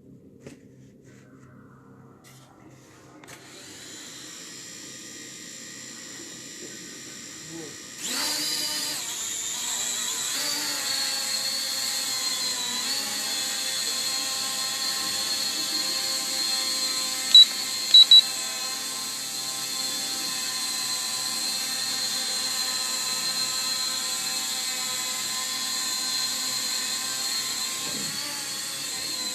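Electric motors and propellers of a small Blizzard toy quadcopter: a faint hum starts a few seconds in, then about eight seconds in the motors jump up to a loud, steady high-pitched whine that holds. Three short high beeps sound near the middle.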